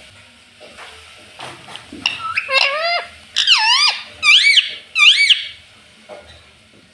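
Pet parrot giving a run of shrill squawks, about five swooping calls that rise and fall in pitch, from about two seconds in until just past the five-second mark.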